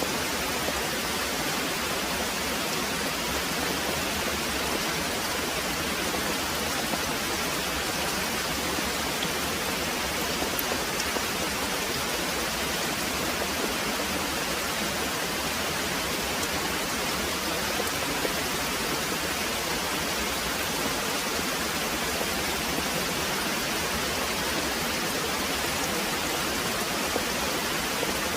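Very heavy rain pouring steadily: a dense, even hiss that does not change.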